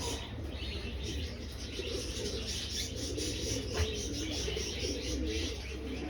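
Domestic pigeons cooing in a loft: several overlapping, warbling low coos go on without a break, over a steady low rumble.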